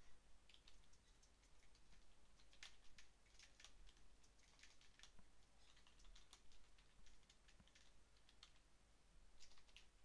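Faint clicking of computer keyboard keys during typing, coming in quick irregular runs with short pauses.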